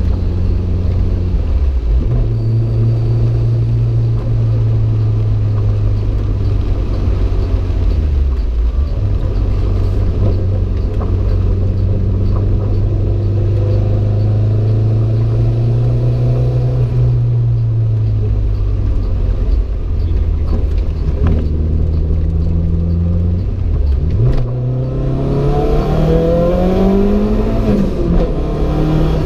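Renault 5 GT Turbo's turbocharged four-cylinder engine running hard under load. The revs dip briefly a few times, then climb steadily near the end before dropping at a gear change.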